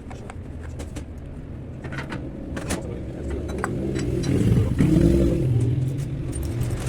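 A car engine running, louder and rising in pitch about four to five seconds in, with scattered light clicks and knocks.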